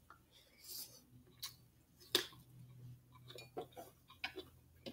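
Faint, scattered clicks and smacks of chewing food, with a wooden spoon tapping and scraping on a plate of rice. The sharpest click comes about two seconds in, and a quick run of them follows near the end.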